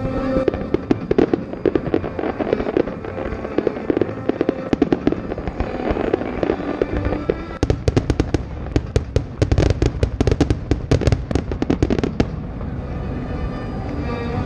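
Fireworks finale: a string of aerial shell bangs and crackles that builds into a dense, rapid barrage about halfway through and breaks off sharply a couple of seconds before the end.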